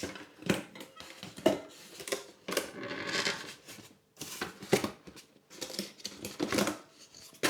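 Irregular rustling, scraping and clicking from hands handling the bike and its packaging, with a longer rustle about three seconds in.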